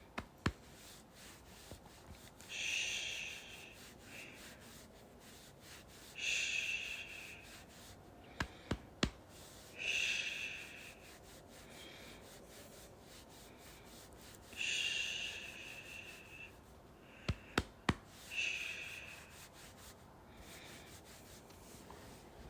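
Soft swishing sounds, each about a second long, coming about every four seconds, with a few sharp clicks in between.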